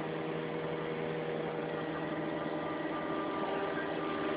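Excavator's diesel engine running at a steady speed while the machine swings round.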